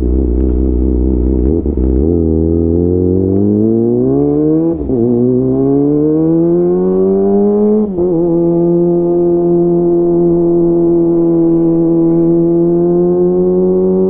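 Kawasaki ZX-25R inline-four engine through a DX Generation GPR full-system aftermarket exhaust, under way. It accelerates with the pitch rising, makes two quick upshifts where the pitch drops suddenly, about five and eight seconds in, then settles into a steady cruise.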